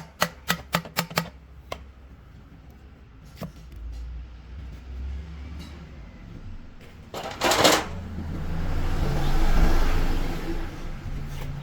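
Workshop tool work on metal during a truck gearbox teardown: a quick run of sharp knocks in the first second, then a short loud burst of noise about halfway through and a longer rush of noise that swells and fades, over a low steady hum.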